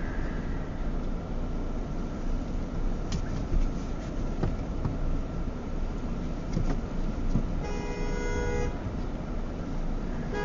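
Car horn sounding: one blast of about a second near the end, then a brief toot right at the close, over a steady low engine rumble.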